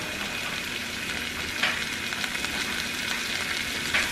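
Onions and tomatoes sizzling as they sauté in a pot on the stove: a steady frying hiss, with a couple of faint clicks about one and a half seconds in and near the end.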